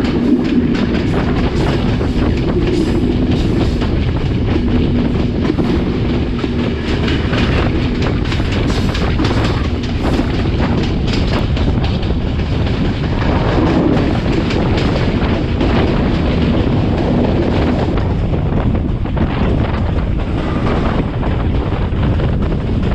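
Class S13 diesel multiple unit running at speed: steady rolling noise with wheels clicking over the rail joints, and a low steady hum that comes and goes.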